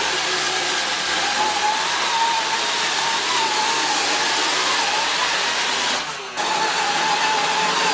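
Roomba robot vacuum running: a steady whirring with a high whine that wavers slightly in pitch. The sound dips briefly about six seconds in.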